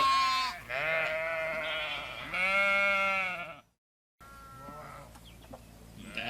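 Sheep bleating: three loud, wavering bleats, a brief drop to silence about halfway, then fainter bleating.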